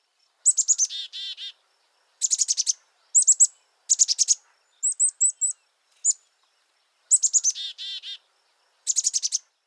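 A small songbird calling: quick series of high, sharp chirps repeated about every second. Twice the series runs into a few lower, buzzy notes.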